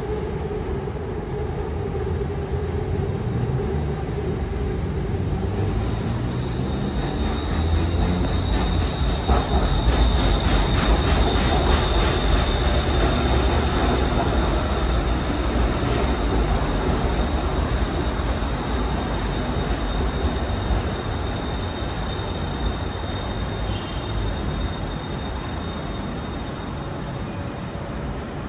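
BTS Skytrain electric train pulling into an elevated station and slowing to a stop. The wheel-on-rail rumble grows louder as the train runs along the platform, peaking about a third of the way in, with a steady high whine through the middle, then eases as it slows.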